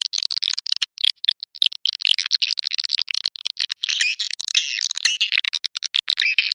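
Swiftlets twittering: a dense, unbroken stream of rapid, high chirps and clicks. It is a swiftlet calling-sound recording of the kind played to lure the birds into a swiftlet house.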